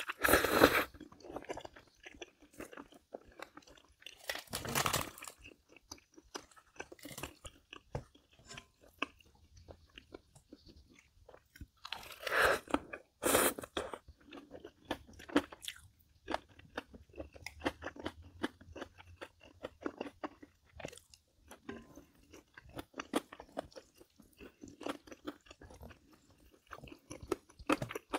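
A person eating close to the microphone: steady chewing with crisp, crunchy bites, and a few louder bursts near the start, about five seconds in, and about twelve to thirteen seconds in.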